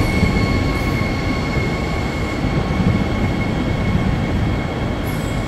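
ODEG double-deck electric regional train moving along the platform: a steady rumble of wheels and running gear with a high whine held on a few steady notes, easing off slightly near the end.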